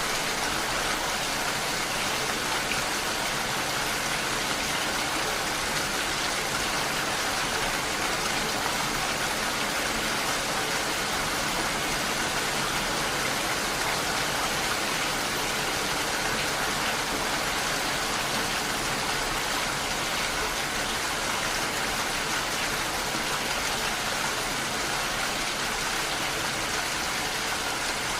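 Steady rain falling on window glass, an even hiss that holds at the same level throughout.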